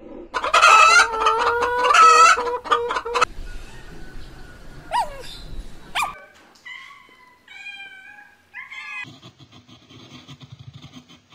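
Chickens calling and clucking: two loud, drawn-out calls in the first few seconds, then shorter chirps and squawks, changing abruptly about six and nine seconds in as separate clips follow one another.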